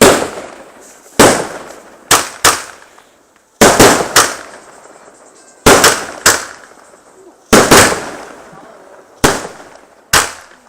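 Helios 'Limbo' firework battery firing shot after shot: loud, sharp bangs about a second or two apart, several in quick pairs, each trailing off in a short fading rumble.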